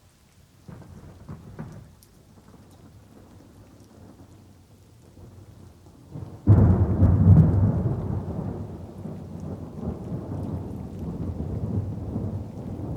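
Thunder over light rain: a low rumble with a few crackles starting about a second in, then a sudden loud thunderclap about halfway through that rolls on and slowly fades under steady rain.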